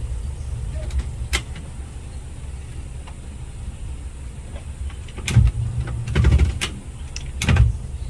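Knocks and bumps of a phone being handled and adjusted against its microphone, several of them in the second half, over a steady low rumble.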